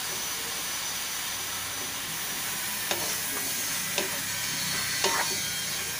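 Raw chicken gizzards and chicken pieces sizzling in a metal wok while a wooden spatula stirs them. The spatula knocks against the pan three times, about a second apart, in the second half.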